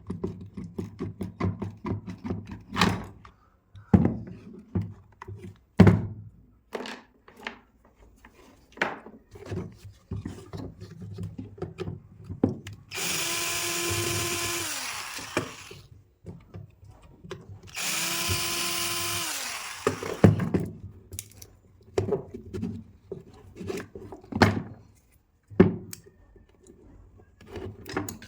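Clicks and knocks of metal parts and hand tools being handled on a bench. In the middle, an electric power tool's motor runs twice for two to three seconds each, a few seconds apart, at a steady pitch, and winds down each time.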